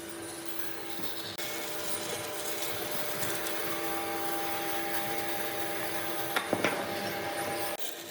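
A power tool working wood, a steady rasping whir with a few sharp clicks about six and a half seconds in. It breaks off abruptly about one and a half seconds in and again near the end.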